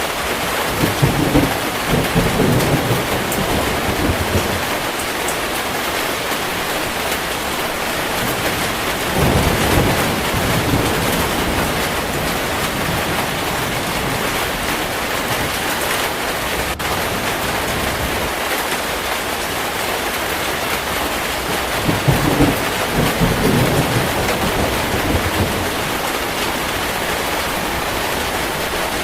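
Heavy rain falling steadily, with thunder rumbling in three rolls: one about a second in, one near the ten-second mark, and one a little past twenty seconds.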